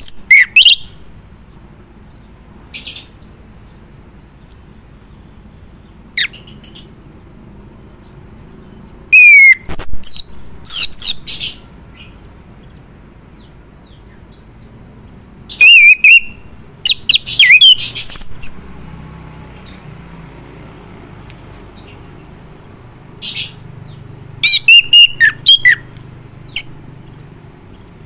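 Male chestnut-capped thrush (anis kembang) singing: loud, quick phrases of whistled, sliding and chattering notes, given in bursts with short pauses between them.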